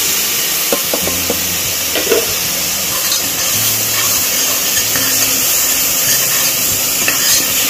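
Onion paste sizzling loudly in hot oil in a pan: a steady hiss, with a few light clicks of a metal spoon against the pan in the first couple of seconds.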